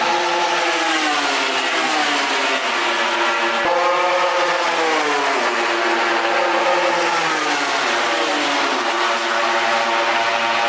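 A MotoGP racing motorcycle's 1000 cc four-cylinder engine running hard. Its revs fall and climb again about three times.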